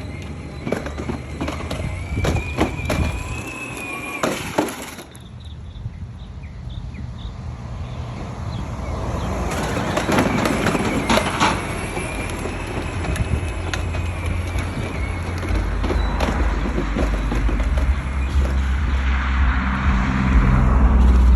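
A small vehicle driving over rough ground. A low rumble builds up over the second half, with scattered knocks and rattles throughout.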